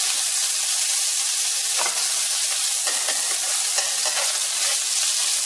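Shredded chicken with red onion and garlic sizzling steadily in a hot non-stick wok, stirred with a spatula that scrapes the pan a few times.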